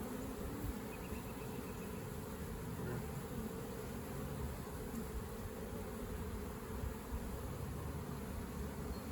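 Steady hum of many honey bees buzzing around an open hive as its frames are worked.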